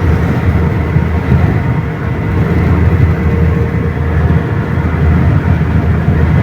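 Steady engine and road rumble heard inside the cab of a GAZelle light truck while it drives, with a faint steady whine over the low drone.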